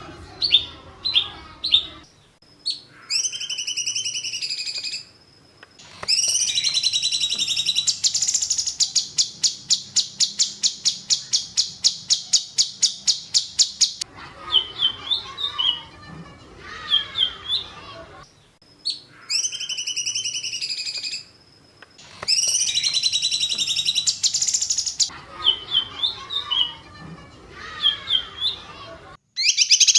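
Songbird song from a bird-training (masteran) recording: sharp high chirps and whistled phrases with short pauses between them, including a fast, even trill of about five notes a second lasting several seconds. Similar phrases come round again about halfway through, as in a looped recording.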